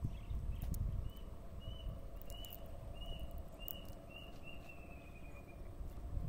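A small animal calling outdoors: a series of short, high chirps at about two a second, ending in a slightly falling trill, over low wind rumble.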